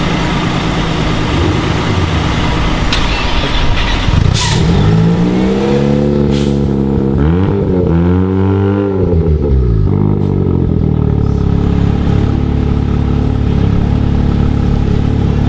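Car engines running in a parking lot, with one engine's revs rising and falling several times in the middle as a car is driven through.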